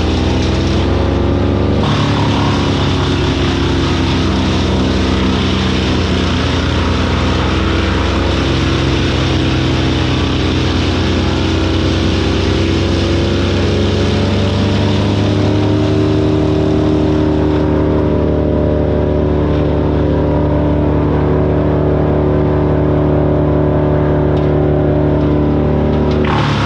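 Vermeer BC1000 XL gas wood chipper's engine running at high speed, with its pitch sagging and picking back up a few times as the load changes.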